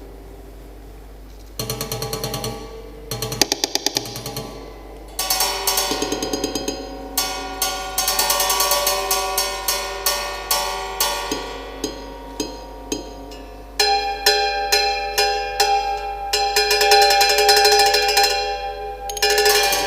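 Strings of a keyless piano struck by fitted mechanical devices. After a quiet start come bursts of very rapid fluttering taps, building into ringing notes and chords that swell near the end.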